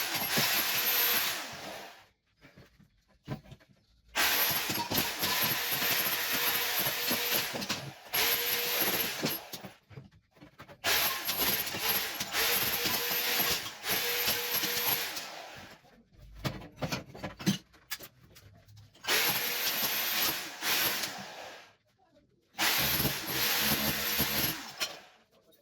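Electric power tool running in bursts of a few seconds with short pauses between them, chipping old ceramic wall tiles off a kitchen wall.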